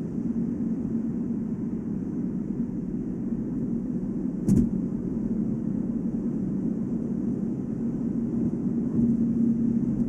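Volvo S80 at about 145 km/h with a steady low hum over filtered road noise, the hum firming up again near the end; a single short thump about four and a half seconds in. The hum appears only on a set of brand-new Goodyear Eagle F1 summer tyres and does not change with acceleration, braking or cornering, so the owner doubts a worn wheel bearing and suspects the tyre tread or rim design.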